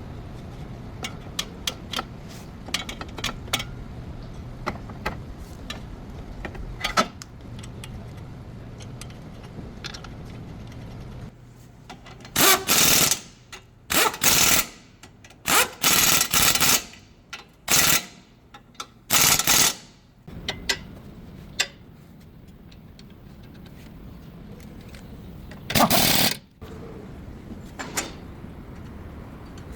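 A pneumatic impact wrench firing in about seven short bursts, as during nut tightening on a CV axle job, with light clicking and tool handling before it.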